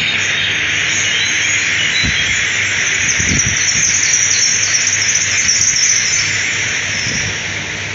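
Woodland nature ambience: a dense, steady chorus of insects with bird chirps over it, and a few short low sounds about two and three seconds in, fading slightly toward the end.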